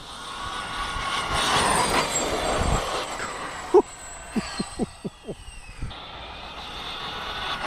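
Losi 5ive TE 3.0 1/5-scale electric 4WD truck running flat out, its motor and tyres making a rushing noise that swells and fades. A quick run of short pitched blips comes about halfway through.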